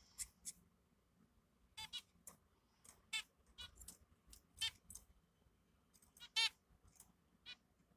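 Newly hatched baby birds peeping: a string of short, high cheeps at irregular intervals.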